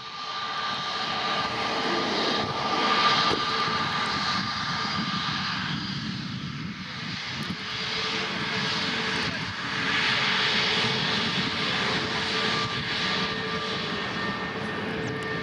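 Airbus A320-200 jet engines running continuously during its takeoff, a broad engine noise carrying steady whining tones, with a higher whine joining near the end.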